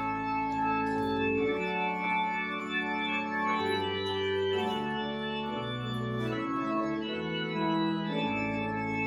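Organ playing slow, sustained chords, the harmony shifting every second or so.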